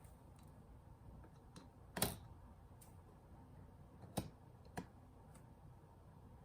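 Scattered small, sharp clicks and taps of tools and small parts being handled while working on a Nintendo Switch, the loudest about two seconds in and two more near four and five seconds.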